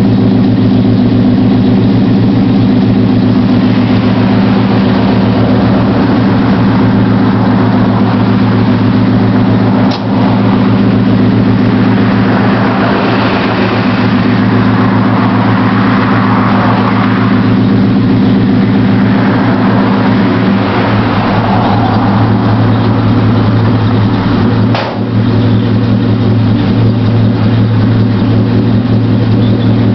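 1977 Chevrolet C10 pickup engine idling steadily through its Flowmaster exhaust, still warming up after a cold start.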